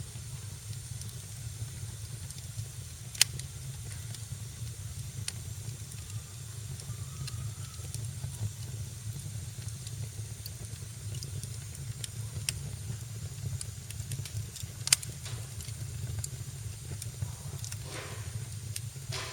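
Wood fire burning in a fireplace, crackling over a steady low rumble and hiss, with two sharp pops about three seconds in and near fifteen seconds.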